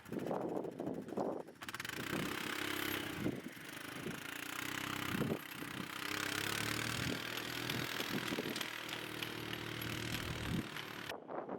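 Four-wheeler (ATV) engine running while plowing snow, its pitch shifting up and down. Near the end the sound changes abruptly to wind on the microphone.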